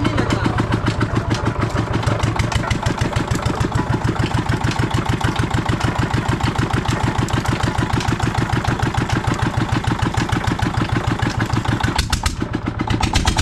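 Old desi single-cylinder diesel engine running steadily, driving a sugarcane crusher, its exhaust beating in an even rhythm. There is a brief dip near the end.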